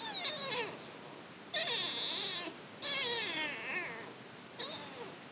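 Kitten meowing repeatedly: four high calls, each falling in pitch, the middle two about a second long.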